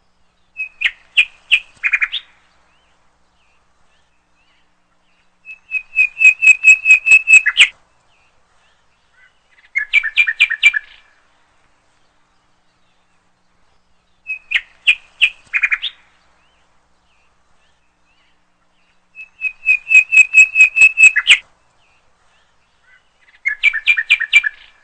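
Bird chirping in short, rapid trills of several notes each, six phrases with dead silence between them. The same sequence of three phrases comes round again about 14 seconds later, like a looped recording.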